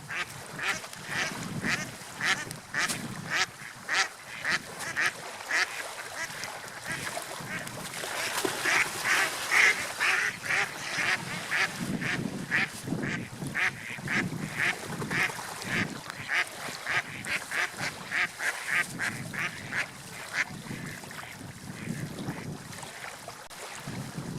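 Waterfowl calling over and over in short quacking calls, about two to three a second, over a low, swelling wash of water.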